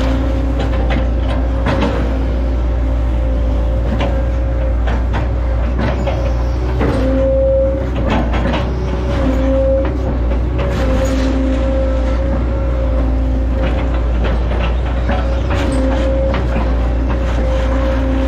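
Hitachi Zaxis 110 excavator's diesel engine running steadily with a held hydraulic whine that swells now and then under load, over frequent short knocks and clicks.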